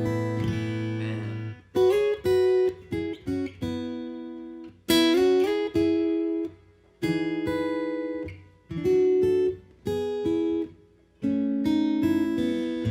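Acoustic guitar playing plucked chords and short runs of notes. Each chord is struck sharply and left to ring and fade, with brief gaps between phrases.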